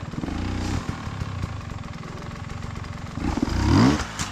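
Off-road motorcycle engine running at low revs with a short blip of the throttle, then revved hard in quick rising bursts about three seconds in.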